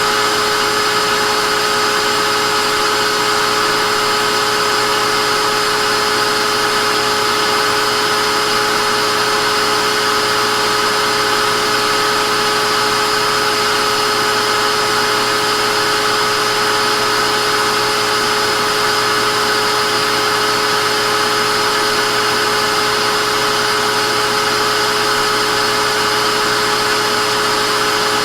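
Vacuum cleaner motor running steadily, a constant whine over a rush of air.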